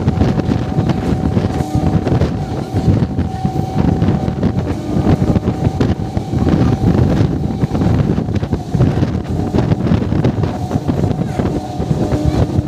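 MEMU electric train running at speed, heard from an open window or door: wind rushing over the microphone over a dense rumble of wheels on rail, with a steady whine running through it.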